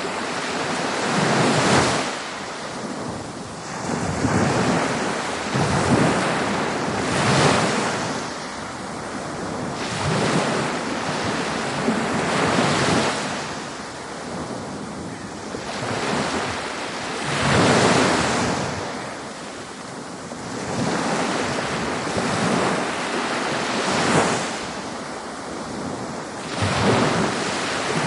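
Ocean surf breaking on a beach: a continuous wash of water noise that swells and falls away every two to three seconds as waves come in.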